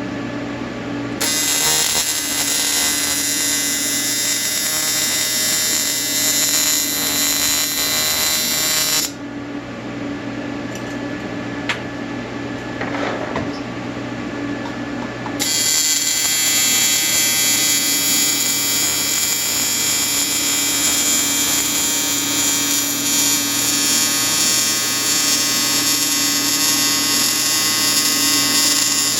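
Welding arc buzzing in two long runs, about eight seconds and then about fourteen seconds, with a lower steady hum from the welding machine in the pause between.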